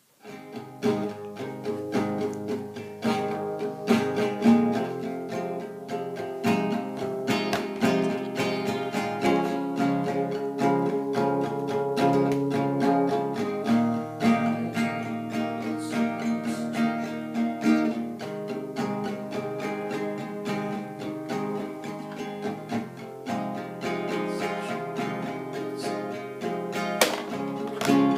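Music played on acoustic guitar, strummed and plucked, starting suddenly and playing steadily throughout.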